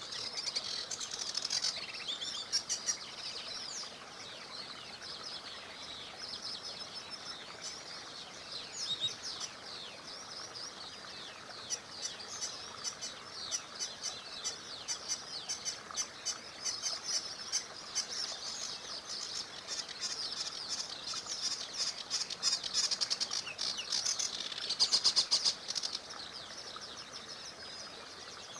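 Many small songbirds chirping and trilling at once in a dense, overlapping chorus of high notes. It is loudest in a burst near the end.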